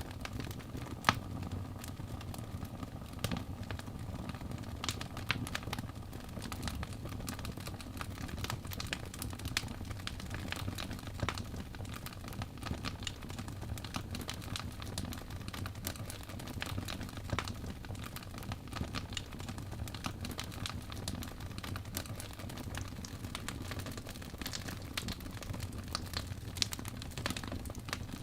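Fire in a fireplace crackling: irregular sharp pops and ticks over a low steady rumble, with one louder pop about a second in.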